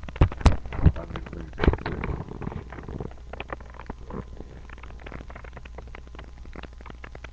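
Handling noise: a few sharp knocks in the first two seconds, then crackling and rustling with scattered small clicks over a steady low hum.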